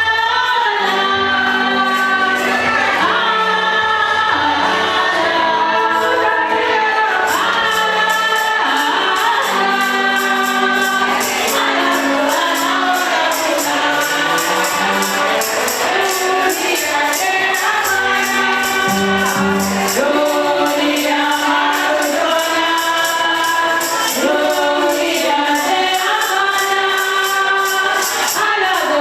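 A group of voices singing a gospel hymn together, with a tambourine joining in about seven seconds in and keeping a steady beat.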